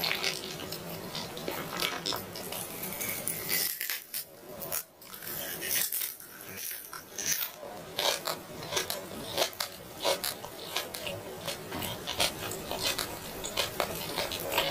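Close-miked eating sounds of someone eating roast chicken: chewing, mouth smacks and wet crackles in a quick irregular run, with a short lull about four seconds in.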